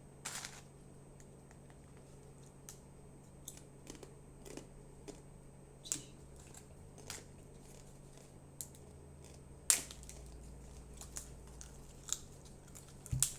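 Tortilla chips crunching as they are bitten and chewed, in scattered sharp crunches with pauses between them, the loudest about ten seconds in, over a low steady hum.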